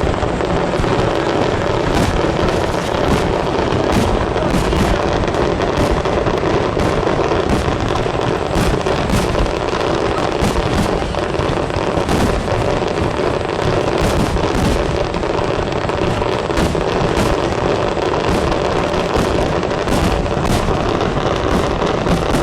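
Aerial fireworks bursting in a rapid, unbroken barrage: many sharp bangs a second, running together into a continuous rumble.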